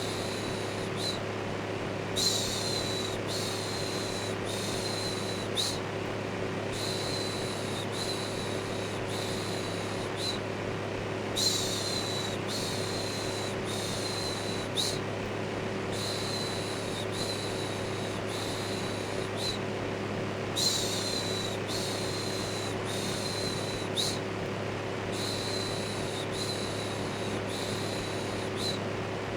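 Electric fan running steadily with a low hum, overlaid with a looped 'shhh' shushing sound. The shushes come in short strokes of about a second, in runs of three or four, each run starting a little louder.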